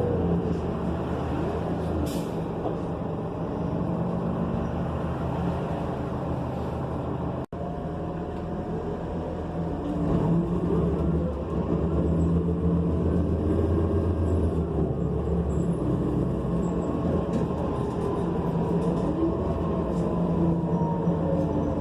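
Interior sound of a New Flyer XN40 transit bus on the move: its Cummins Westport ISL G natural-gas engine and Allison automatic transmission run steadily, with a short air hiss about two seconds in. From about halfway through the drivetrain gets louder as the bus pulls away, with a whine that glides up in pitch.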